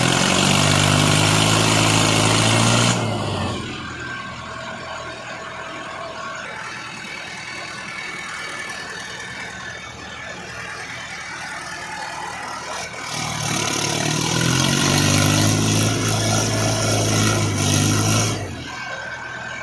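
Diesel tractor engine revving up hard for about three seconds, dropping back to a lower, quieter run, then revving up again for about five seconds near the end before easing off.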